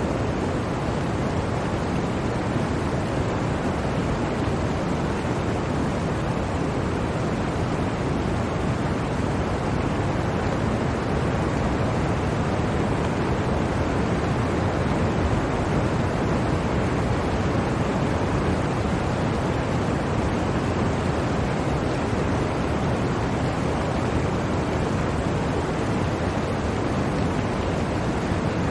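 Blizzard wind blowing steadily, an even rushing noise with no gusts or breaks.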